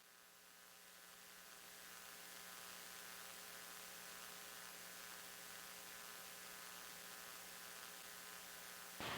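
Faint steady electrical hum with hiss, like mains hum from a sound system, growing slowly louder over the first couple of seconds. A louder noisy sound cuts in suddenly near the end.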